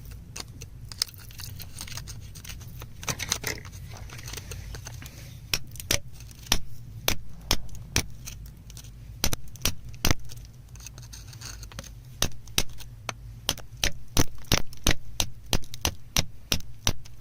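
Small stones clicking and clinking against each other as they are handled and dug through, in many sharp ticks at an uneven pace. The ticks come sparsely at first and grow dense from about five seconds in, over a steady low hum.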